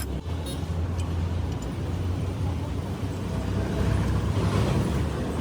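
Steady low rumble of an engine running, with a few light clinks in the first second.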